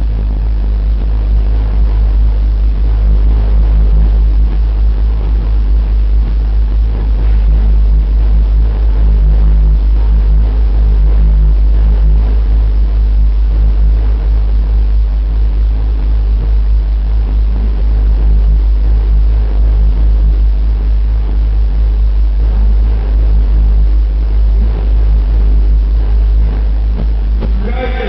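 A van's competition car-audio subwoofers play one long, steady, very loud deep bass note, stopping near the end. This is an SPL bass-race run, pushing for a reading in the 150–159.9 dB class.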